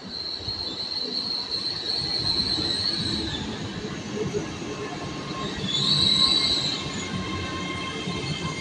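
A train running along the rails with a steady, high-pitched metallic squeal over a low rumble. The squeal breaks off about three seconds in and returns, louder, around six seconds.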